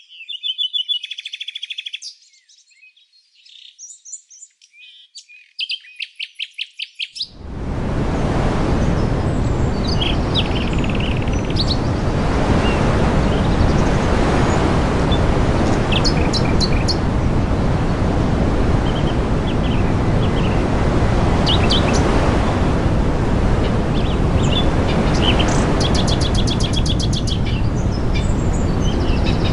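Small birds chirping, with rapid trilled calls. About seven seconds in, a loud steady rushing noise begins and drowns the low end, and the birds go on calling over it.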